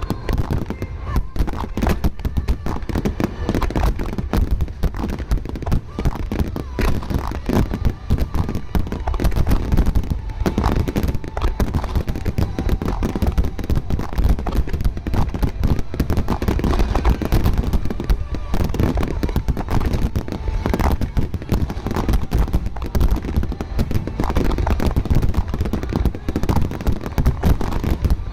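Fireworks going off in a rapid, continuous barrage of bangs and crackles with no pauses.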